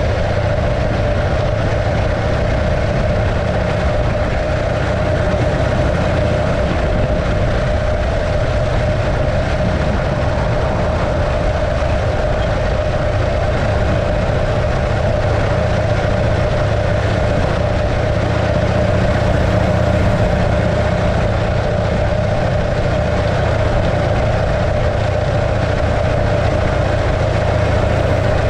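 The 650cc JAP V-twin engine of a 1915 Arcade motorcycle running steadily at an even speed, with a constant mid-pitched hum over a low rumble.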